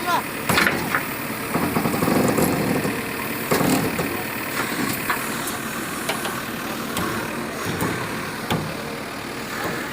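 Heavy engine running steadily, with several sharp knocks and clanks over it.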